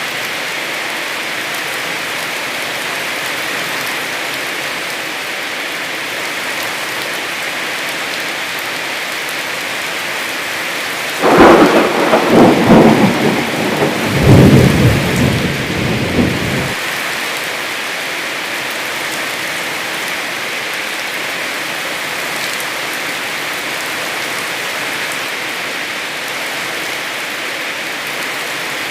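Steady heavy rain. About eleven seconds in, a loud clap and rumble of thunder lasts about five seconds and cuts off suddenly, then the rain continues alone.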